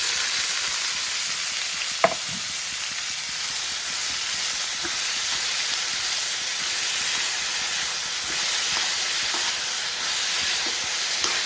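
Momos frying in hot oil in a pan: a steady sizzle, with one sharp tap about two seconds in.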